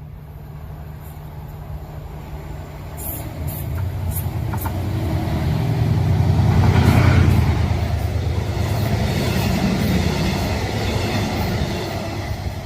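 A train passing, its low rumble building up over several seconds to a peak about halfway through, then carrying on a little quieter, with a few sharp clicks as it approaches.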